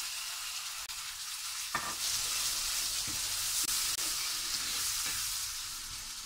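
Ground onion-coconut masala paste sizzling as it fries in hot oil in a pan, stirred and scraped with a ladle. A sharp knock comes just before two seconds in, after which the sizzle grows louder, with a few light taps of the ladle.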